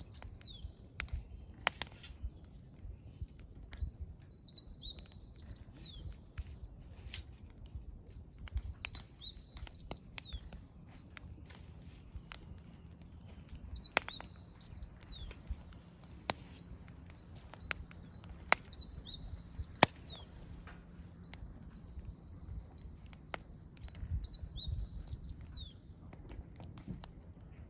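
Firewood burning in a campfire, crackling with scattered sharp pops, the loudest of them about 14 and 20 seconds in. A songbird repeats a short, high, twittering phrase every few seconds throughout.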